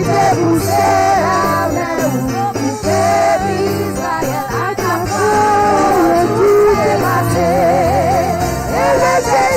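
Gospel worship music: voices singing a melody with vibrato over band accompaniment with a steady bass.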